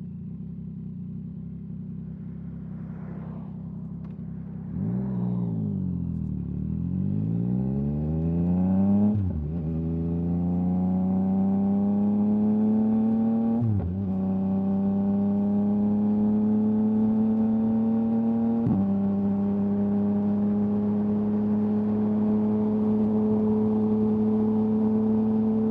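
Yamaha MT-09's three-cylinder engine through an Akrapovic exhaust, running low and steady, then opening up about five seconds in and climbing in pitch through quick-shifter upshifts about nine, fourteen and nineteen seconds in, each a brief dip, before holding a steady cruise.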